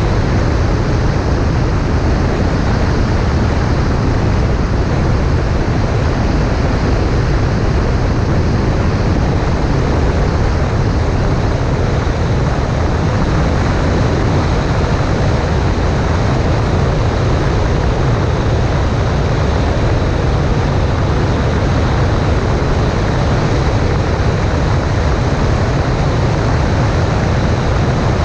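Cessna 140A light aircraft in steady flight: the engine and propeller drone under a loud rush of wind over a wing-mounted camera, unchanging throughout.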